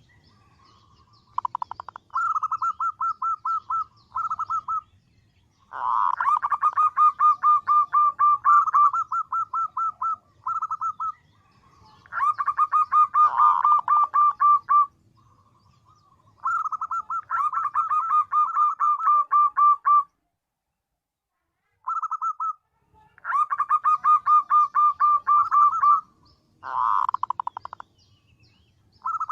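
Female zebra dove calling in repeated bursts of rapid, pulsing coos, each lasting a few seconds with short pauses between. This is the call used as a lure to draw male zebra doves.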